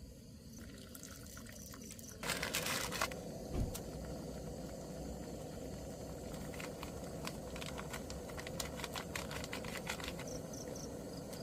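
Crickets chirping in short pulses; about two seconds in a burst of water noise starts, followed by a steady liquid hiss with scattered small clicks.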